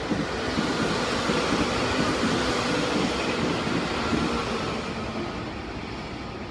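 Meitetsu express train made up of red 6000-series and 6800-series electric units passing through on a far track, its running noise swelling quickly, holding for a few seconds, then fading as it moves away.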